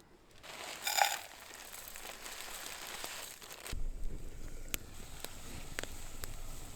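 Food packaging crinkling and rustling as breakfast oatmeal and toppings are handled, with a sharp crackle about a second in and a few light clicks later. A low rumble comes in a little past halfway.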